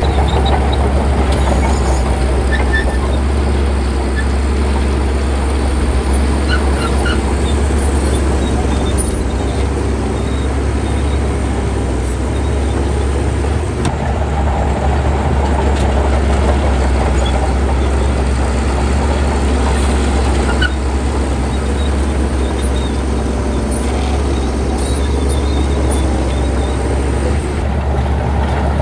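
Bulldozer's heavy diesel engine running steadily with a deep, constant low drone.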